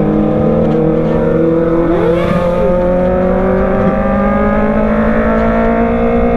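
Kawasaki ZX25R's 250 cc inline-four running loud through a newly fitted Racefit Slash full-system exhaust, holding a steady high-rev note that slowly climbs in pitch. A short rising-and-falling whine cuts across it about two seconds in.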